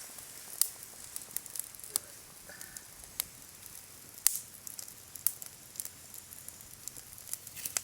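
Wood campfire crackling: sharp pops and snaps at irregular intervals over a faint hiss.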